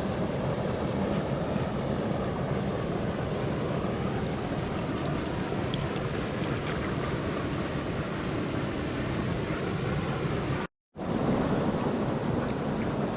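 Steady rush of stormwater pouring and swirling out of a drainage pipe mouth, with a short dropout to silence about eleven seconds in.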